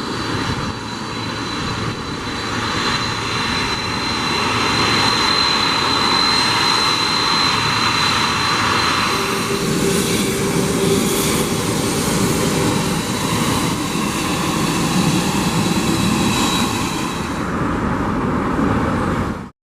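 Boeing 747-400ERF's four jet engines running, a loud steady rush of engine noise with a thin high whine over it. It cuts off abruptly near the end.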